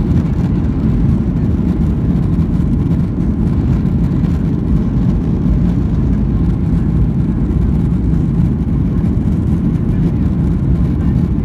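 Airliner cabin noise: a steady low rumble of the jet engines and airframe heard from inside the passenger cabin.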